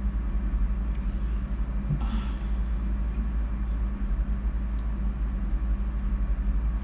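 Steady low background rumble with a faint steady hum, unchanging throughout.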